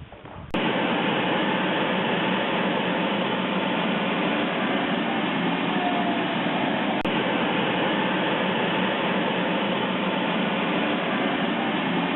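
Model jet's kerosene turbine engine running, a steady, loud rushing noise that starts abruptly about half a second in and holds level, with a couple of faint falling whistles on top.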